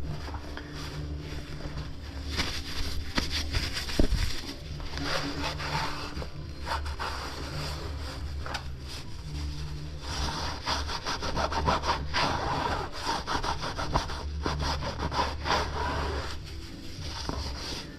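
Mountain bike tyre being worked back onto its rim by hand, the rubber bead rubbing and scraping against the rim in repeated strokes, with a sharp knock about four seconds in.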